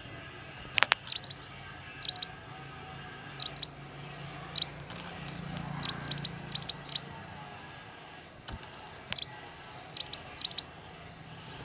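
Minivet (mantenan) calling: short, high chirps in quick clusters of two to four notes, repeated about every second. There is a sharp click near the start and another about eight seconds in, over a low hum.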